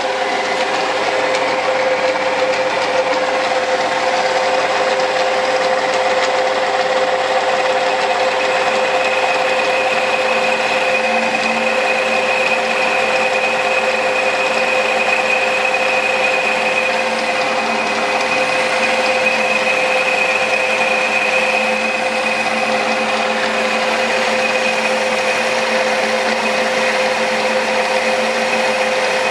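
Small metal lathe running steadily under feed while a new cutting tool takes a pass about one millimetre deep along a taper. The motor and gearing whine evenly, with a higher whine that strengthens through the middle.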